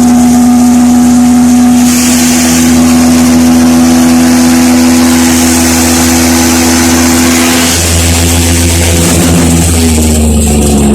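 Tractor engine running at a steady speed, driving a flour mill, with a mechanical hiss over the engine note. The engine's pitch and note shift about eight seconds in.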